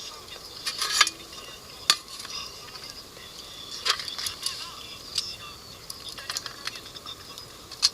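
Cooking utensils clinking and knocking against a pot or pan now and then, with a few sharper knocks about one, two and four seconds in and near the end, over a faint steady hiss.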